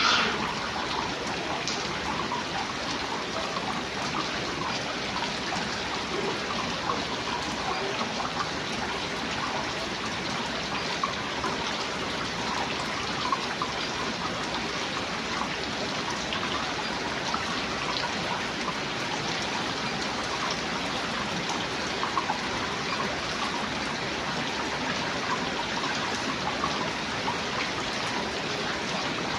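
Steady rain falling, with scattered drips and a brief louder sharp sound right at the start.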